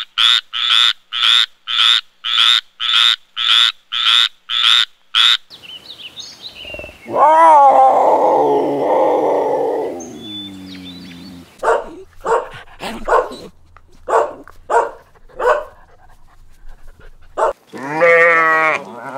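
Farm animal calls in succession: a fast run of short, high calls, about two a second, for the first five seconds; then one long, lower wavering call; then more short calls spaced further apart; and a trembling, quavering call near the end.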